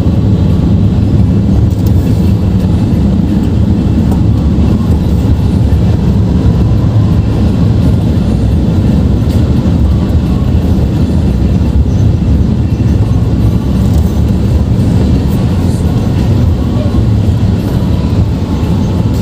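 Motorcycle riding at expressway speed: a steady, loud rumble of wind, engine and road noise.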